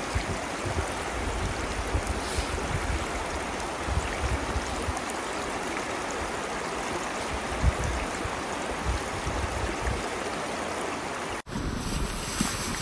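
Steady rushing of a flowing river, with irregular low rumbles of wind buffeting the microphone underneath. Near the end the sound drops out for an instant and cuts to another take of the same water and wind.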